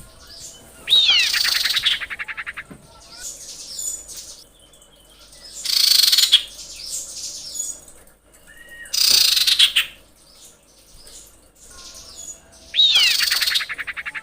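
Female common iora calling: loud phrases about every three to four seconds, some a falling whistled slide into a fast trill and others a harsh rasp, with fainter chirps in between.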